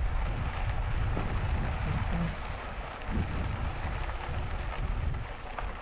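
Wind buffeting the camera microphone during an e-bike ride: a steady low rumble with a rushing hiss over it.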